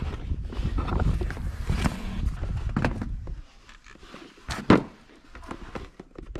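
Handling and movement noises: a low rumbling rustle, then scattered clicks and one loud sharp knock about three-quarters of the way through.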